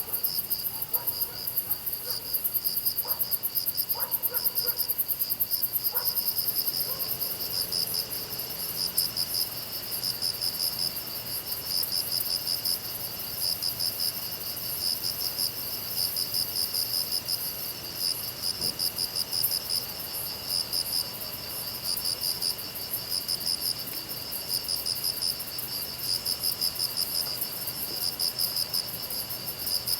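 A chorus of crickets and other grass insects chirping steadily. One keeps up a pulsing chirp in quick rhythmic groups over a continuous high trill and a thin steady buzz.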